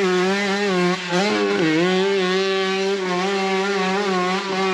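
Off-road motorcycle revving high and holding steady on the throttle, its pitch wavering and dipping briefly about a second and a half in.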